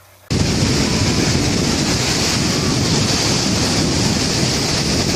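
Loud steady rushing noise that cuts in suddenly just after the start and holds even throughout.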